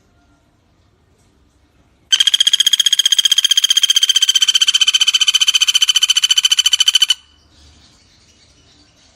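Common flameback woodpecker (pelatuk bawang) giving one long, fast, even rattling call of about five seconds, starting about two seconds in and keeping a steady pitch.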